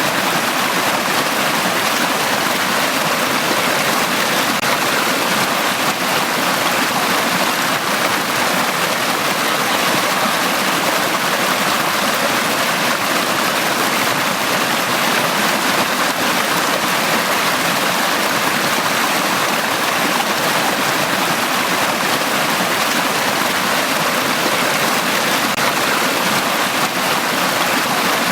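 Valley stream flowing: a steady, even rush of water with no breaks or changes.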